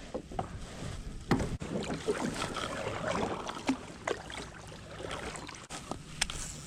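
Kayak on choppy water: water splashing against the hull with scattered knocks and clicks of gear, and wind on the microphone.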